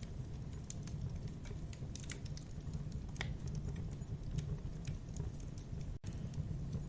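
Campfire burning: a steady low rumble of flames under irregular sharp crackles and pops of burning wood. The sound cuts out for an instant about six seconds in.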